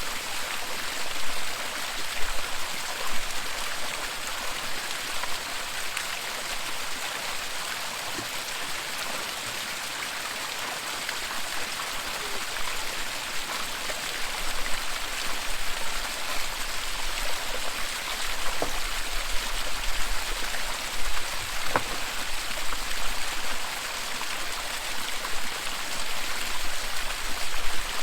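Waterfall: a steady rush of falling water, with a few faint clicks scattered through it.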